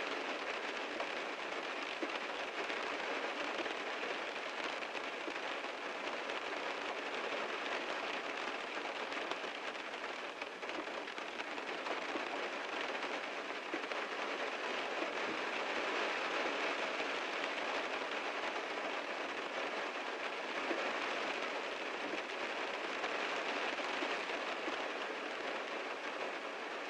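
Heavy rain drumming steadily on a car's roof and body, a dense even pattering that swells and eases slightly.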